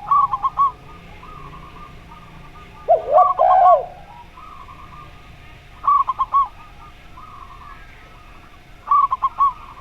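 Doves cooing: zebra doves give short phrases of quick, bubbling notes about every three seconds. About three seconds in, a spotted dove gives a louder, lower two-part coo.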